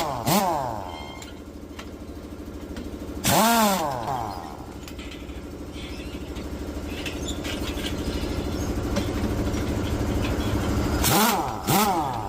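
Pneumatic impact wrench spinning up in short bursts, four times, loosening the tractor wheel's nuts, over a steady engine hum.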